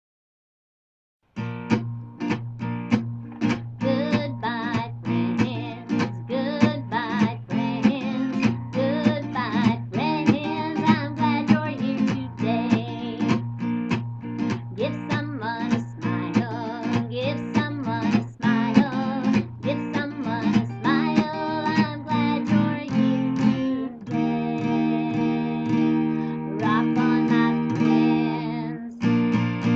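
Acoustic guitar music with a steady strummed rhythm and a melody line over it, starting after about a second and a half of silence.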